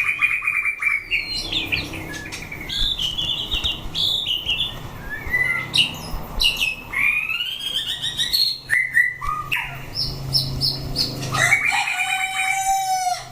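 White-rumped shama singing a varied, rich song of whistled phrases, slurred glides, rapid repeated notes and sharp clicks, with hardly a pause.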